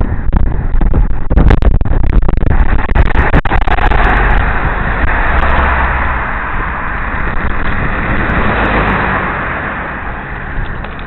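Wind buffeting a helmet-mounted camera's microphone while cycling: a loud, continuous low rumble. A rushing hiss swells about four seconds in and fades near the end.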